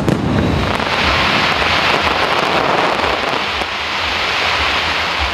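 Fireworks: a sharp bang at the start, then a dense crackle of many small pops for several seconds.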